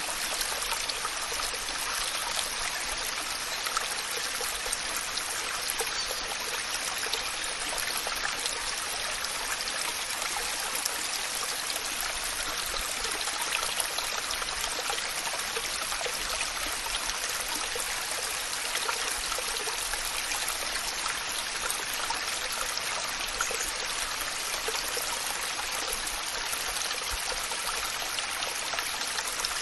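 Waterfall: falling water rushing and splashing in a steady, unbroken hiss, heavy in the upper range with little low rumble.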